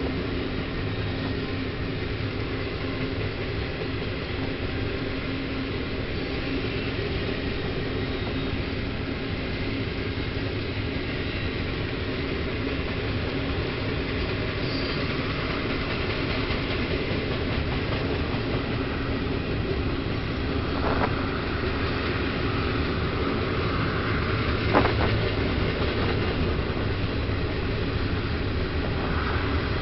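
A long Canadian Pacific train's cars rolling past with a steady rumble of wheels on rail, with two sharp clanks about two-thirds of the way through.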